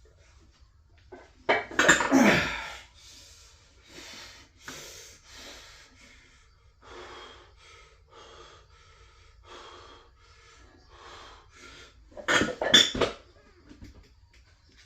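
Metal gym weights clanking loudly twice, about a second and a half in and again near the end, with rhythmic hard breathing through the stretch between, as during a set of reps.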